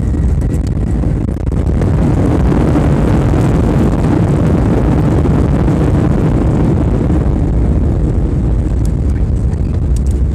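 Airliner cabin noise during the landing: a steady deep rumble of engines and rushing air, which swells louder about two seconds in and eases off again around seven seconds.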